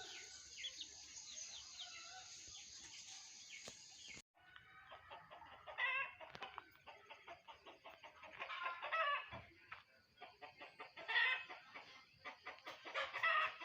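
Chickens clucking, with bursts of loud rapid calls every two to three seconds. Before a cut about four seconds in, a steady high hiss with small bird chirps.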